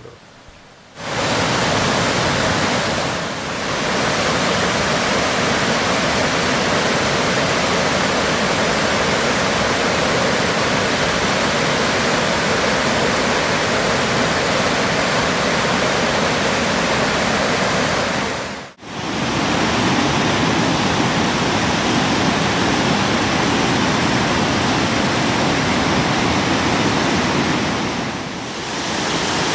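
Waterfall: a loud, steady rush of falling water, broken by a sudden cut a little past halfway and by two brief dips where one shot of the falls gives way to another.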